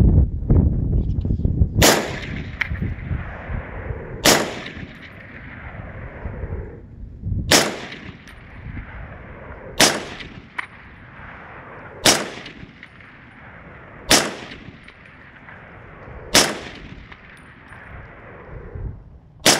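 Eight single rifle shots from an M14 K-Gun with a muzzle brake, fired slowly at about one every two to two and a half seconds, each trailing off in an echo. The rifle is being test-fired to check that it still cycles properly with the muzzle brake fitted. Wind buffets the microphone in the first second.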